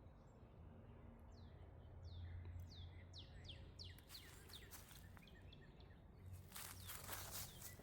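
A songbird singing faintly: a run of quick high chirps that each fall in pitch and come faster and faster. Footsteps crunch in near the end.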